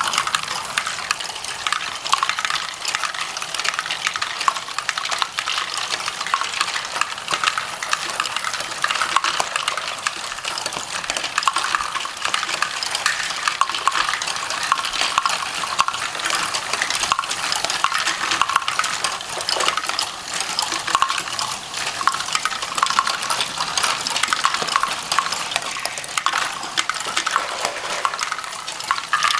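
Small plastic Lego bricks clattering and clicking as they are handled, in a dense run of small clicks.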